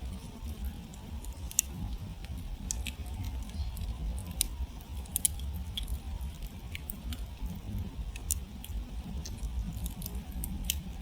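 Campfire burned down to glowing embers, crackling with scattered sharp pops and snaps over a steady low rumble. A sharp pop comes about a second and a half in.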